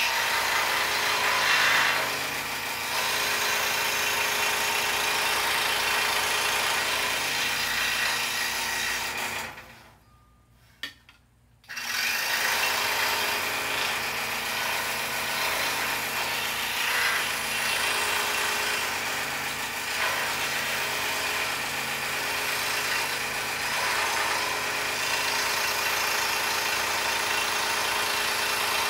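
Scroll saw running, its blade cutting through a poplar puzzle board with a steady motor hum. It stops about ten seconds in, with one brief click in the quiet, and starts up again about two seconds later.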